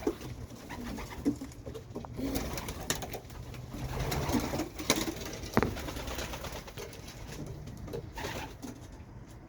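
Racing pigeons cooing in a loft, with scattered clicks and knocks of birds moving about.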